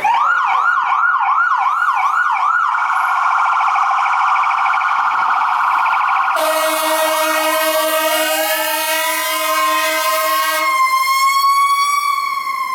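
Fire apparatus sirens: an electronic siren warbling rapidly, then holding a steady buzzing tone. About six seconds in, air horns start blasting, and a mechanical Federal Q siren winds up under them, rising to its peak and beginning to wind down after the horns stop.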